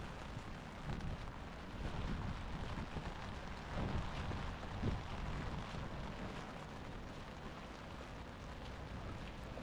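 Water splashing and sloshing against an action camera's microphone during open-water swimming, a steady low rumble with louder surges about four and five seconds in.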